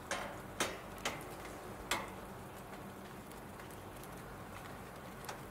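Steady patter of rain with a few sharp single drop taps, four of them in the first two seconds and one more near the end.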